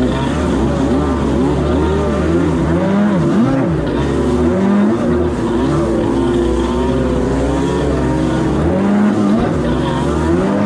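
Two-stroke jet ski engines revving up and down, their pitch rising and falling over and over as the throttle is worked, more than one engine overlapping.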